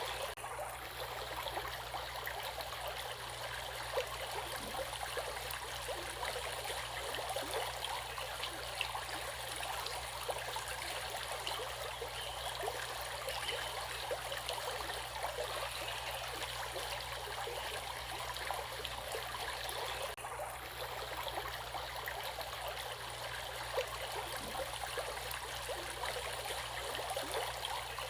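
Stream water flowing steadily over rocks, a continuous rush with many small splashes and trickles.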